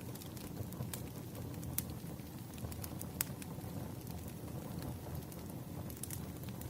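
Campfire burning: a steady low rumble of flames with scattered crackles of burning wood and a few sharper pops.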